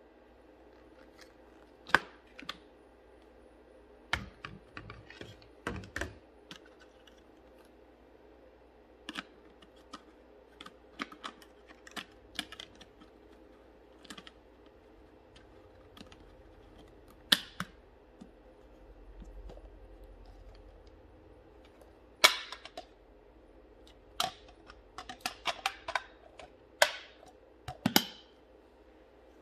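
Scattered sharp clicks and knocks, a few at a time through most of the stretch, then a quicker cluster near the end, over a faint steady hum.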